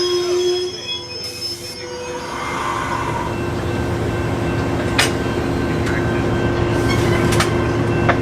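Train wheels squealing on the rails, the steady high squeal fading within the first second. A train's low rumble and steady hum then build from about two and a half seconds in, with a few sharp clicks from the wheels over the track.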